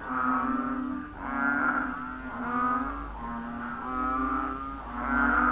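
Low droning hum that steps between two pitches, with a brighter, buzzing swell rising over it about once a second.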